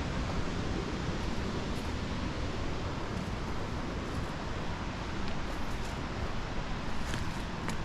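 Steady rushing of a waterfall and its stream heard from a distance, an even hiss-like roar with a few faint ticks near the end.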